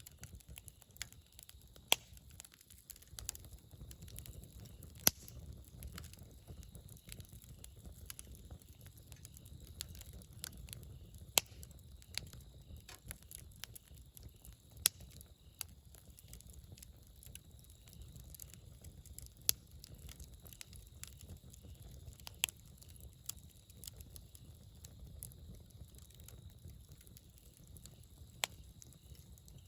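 Wood fire burning: a steady low rumble with irregular crackling, and about eight sharper, louder pops scattered through it.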